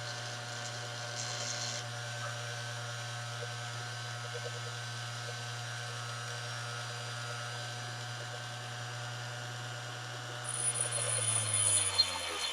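A grinder's motor runs steadily while a lathe tool bit is ground to shape. Near the end it gets louder, with a high whine, as the steel is pressed against it.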